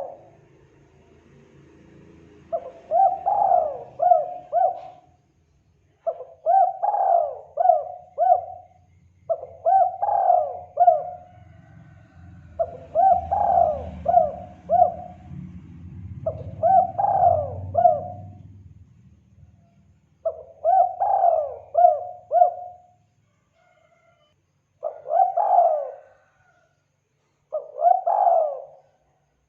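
Spotted dove (tekukur) cooing: a phrase of three or four notes repeated about every three to four seconds, the last two phrases shorter. It is a lure call for drawing in wild doves. A faint low rumble sits underneath until about two-thirds of the way through.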